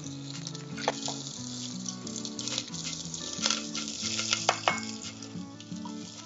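Shallots, mustard seeds and curry leaves sizzling in hot oil during a South Indian tempering, a steady hiss with a few sharp crackling pops. Soft background music plays underneath.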